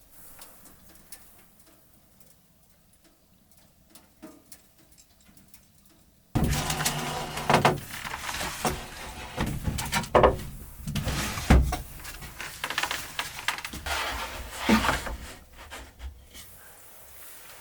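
Near quiet, then about six seconds in a sudden start of close-up handling noise: repeated knocks, thuds and rustling of objects being moved around in a small room.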